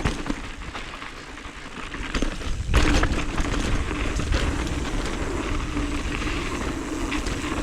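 Mountain bike rolling over a dirt trail: tyre noise, rattles and small knocks with rumble on the helmet-camera microphone, getting louder about three seconds in.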